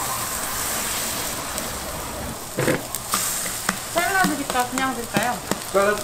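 Freshly ladled buchimgae (Korean pancake) batter sizzling in oil on a round griddle, a steady hiss. From about halfway through, a few sharp clicks and scrapes of a metal spatula on the griddle.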